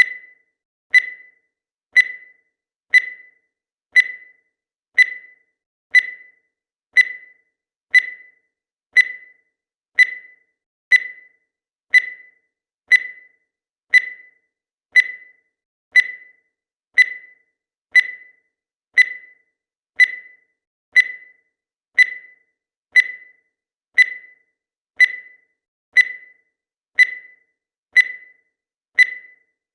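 Countdown timer's electronic beep sounding once a second, each a short high ping that fades away quickly.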